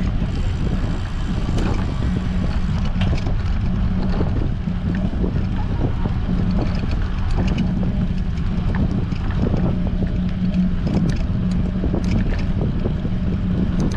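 Strong wind buffeting a GoPro camera's microphone while riding a bicycle: a steady, loud rumble with a low steady hum under it and scattered small ticks.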